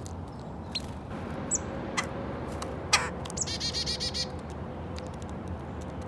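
Small wild songbirds calling: a few short, high chirps, a sharp tap about three seconds in, then a rapid run of repeated notes lasting about a second.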